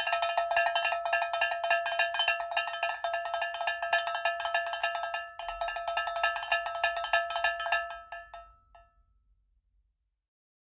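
Rapid metallic percussive strikes, many a second, each carrying the same ringing tones, starting abruptly and fading out about eight seconds in.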